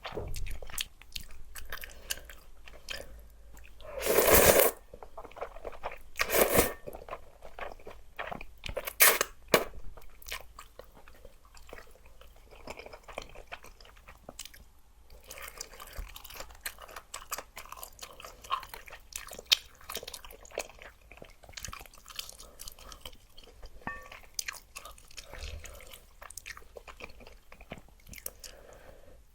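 Close-miked chewing and crunching of a mouthful of spicy luosifen (river-snail rice noodles). Many small crisp clicks run throughout, with a few louder bursts about four, six and a half and nine seconds in.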